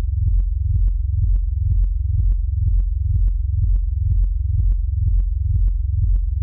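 Electronic music playback: a sustained low synthesizer bass with a light click about twice a second.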